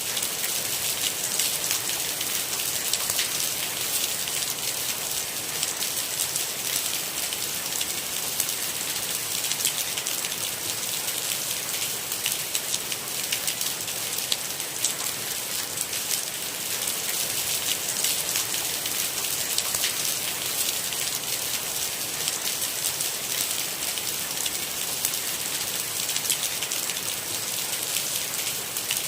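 Steady rain: an even hiss made of a dense patter of fine drop ticks, holding the same level throughout.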